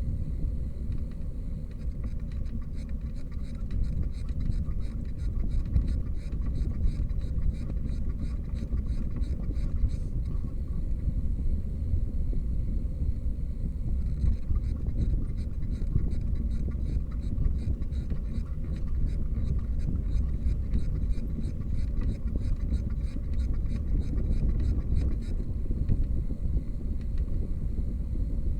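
Wind rumbling on the microphone of a moving bicycle. A light, regular tick at about four a second comes in for two long stretches and stops between them.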